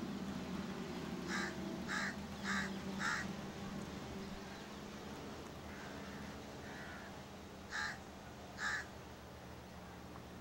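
A bird calling outdoors: four short, harsh calls about half a second apart, then two more close together near the end, over a steady low hum.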